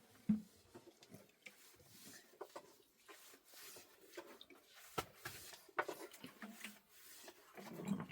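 Scattered light knocks and taps with some rubbing, the sharpest about a third of a second in and again about five seconds in.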